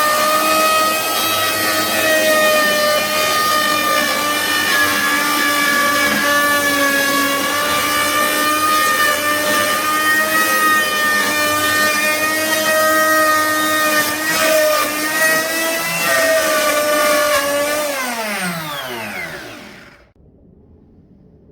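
Handheld wood router running at full speed with a steady high whine while cutting into wood. Near the end it is switched off and winds down, its pitch falling over about two seconds.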